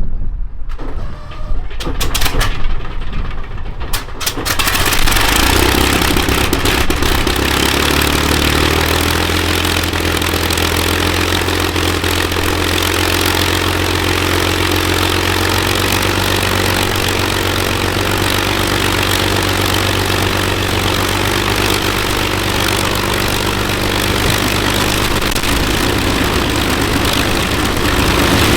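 Rolls-Royce Merlin V12 engine of the Avro Lancaster NX611 starting up: a few sharp coughs as it fires, then it catches about four seconds in and settles to a steady idle.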